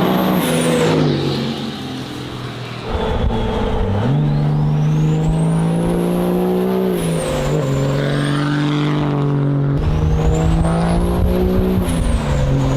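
Truck engine revving up and falling back twice, with a high whistle rising and falling along with the revs.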